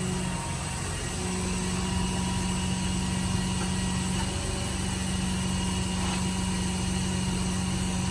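Vehicle engine running steadily with a low, even hum; the hum briefly drops out about half a second in and returns about a second in.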